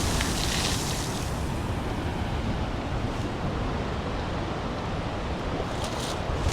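Ocean surf surging against the rocks around a coastal blowhole, with wind on the microphone; a higher hiss fades out about a second in, then the wash of the sea goes on steadily.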